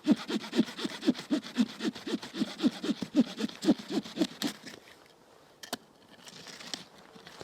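Hand saw cutting with quick back-and-forth strokes, about four a second, stopping about four and a half seconds in, followed by a few light clicks.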